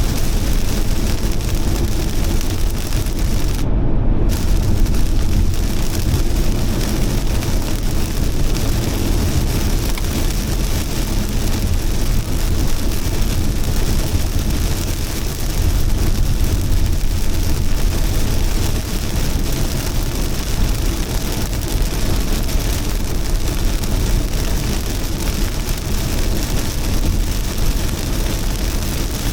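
Heavy rain falling steadily, a dense even hiss over a deep low rumble. The high part of the hiss drops out briefly about four seconds in.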